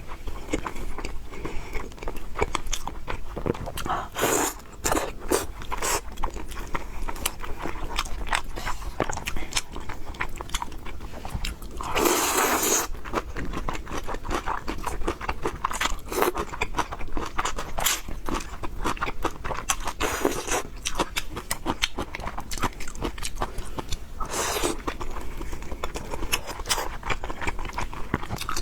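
Close-miked eating of fried noodles with pork: steady chewing and crunching with many small wet mouth clicks. About halfway through there is a louder rush of noise lasting about a second, with two smaller ones later.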